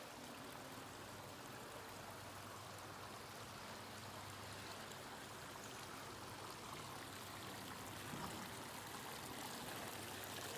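Faint, steady rush of running water, slowly getting louder toward the end.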